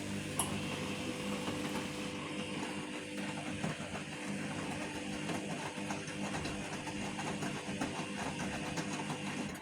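Vestel CM8710 8 kg washing machine running in its final rinse: a steady motor hum under a constant churning noise, which drops away near the end.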